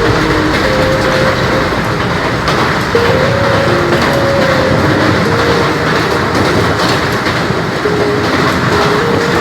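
Indian Railways express train running along the track: a loud, steady rushing noise of the moving train.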